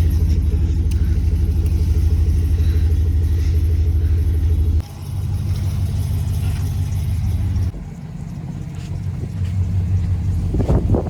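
Lifted 2007 Chevy Silverado pickup's engine running with a low rumble. The sound shifts abruptly about five and eight seconds in.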